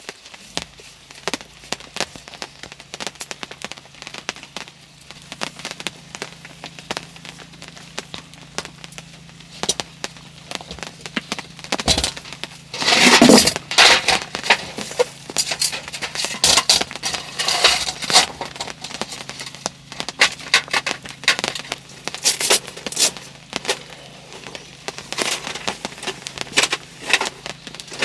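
Wood fire crackling, with irregular pops and snaps throughout and a dense, louder run of crackles about thirteen seconds in.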